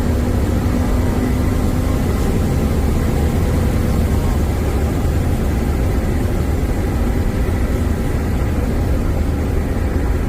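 BMW F82 M4's twin-turbo inline-six with an M Performance exhaust, running at a steady cruise in a tunnel: an even, deep exhaust drone that holds one pitch with no revving.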